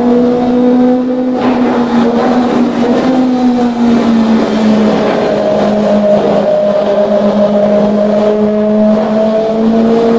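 Kawasaki ZX-25R's inline-four engine through a custom aftermarket exhaust, running at steady high revs with a smooth, even note whose pitch drifts slightly lower over the stretch.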